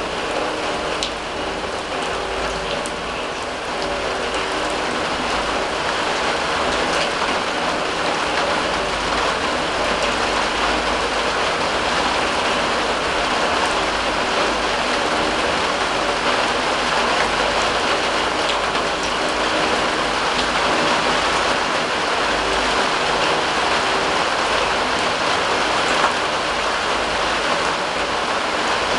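Steady rain falling, with many small drops ticking on a steel drum.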